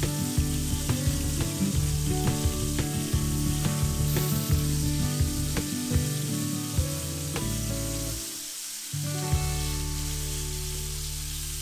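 Flour-dredged capelin frying in vegetable oil in a pan: a steady sizzle studded with sharp crackling pops, which thin out after about seven seconds. The sound drops away briefly around eight seconds in and returns as a quieter sizzle.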